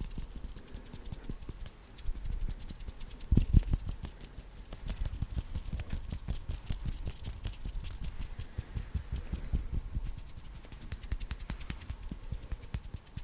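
Fast ASMR hand sounds close to the microphone: hands rubbing and fluttering quickly, making a dense, rapid crackle of skin-on-skin clicks. There is a louder thump about three and a half seconds in.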